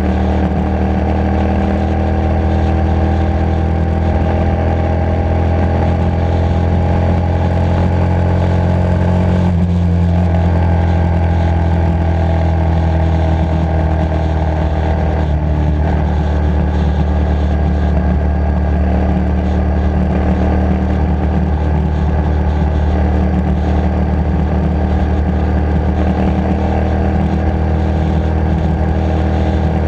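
Motorcycle engine running steadily while riding, its pitch drifting slowly up and down with the throttle. It breaks briefly twice, about a third of the way through and again around halfway, as with a throttle change or gear shift.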